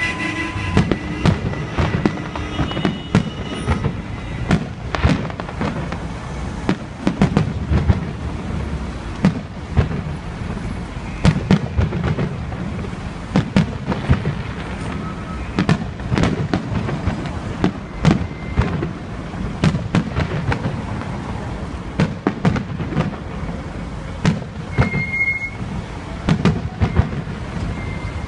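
Fireworks display: aerial shells bursting, a continuous run of bangs and crackles, several a second at times, over a low rumble. A brief high steady tone sounds near the end.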